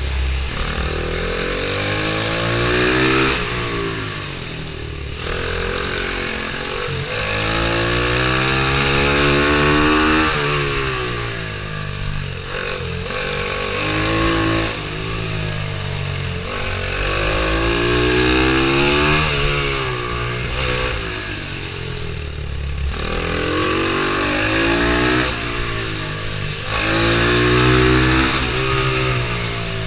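Pit bike engine revving up and backing off again and again as it is raced, its pitch climbing for a few seconds, dropping sharply and climbing again about every five or six seconds.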